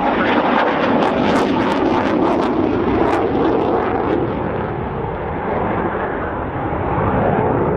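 Eurofighter Typhoon's twin Eurojet EJ200 jet engines running loud in a display pass, a steady rush of jet noise with crackling through the first few seconds that eases slightly for a moment past the middle.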